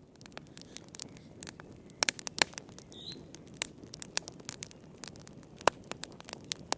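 Wood fire crackling in a fireplace: irregular sharp pops and snaps, several close together about 2 s in, over a low steady hiss of burning.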